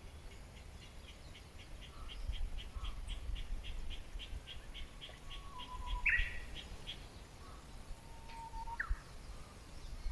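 Wild birds singing: one bird gives a rapid series of about three short high notes a second for several seconds, while another gives whistled notes that flick sharply upward. A low rumble runs underneath.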